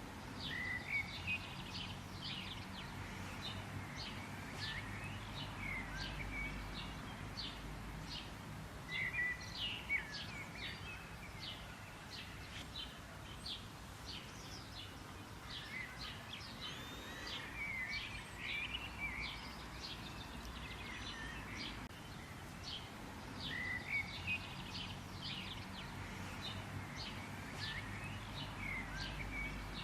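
Several songbirds chirping and calling, quick short notes and whistled phrases coming again and again, over a steady low background hum.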